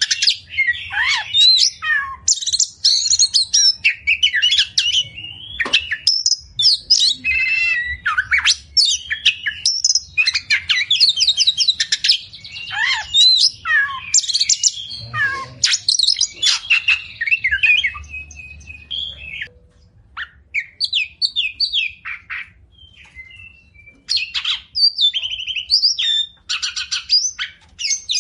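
Oriental magpie-robin (kacer) singing a fast, varied song full of mimicked phrases: whistles, rapid trills and harsh notes one after another. About twenty seconds in it thins to scattered short notes, then picks up again near the end.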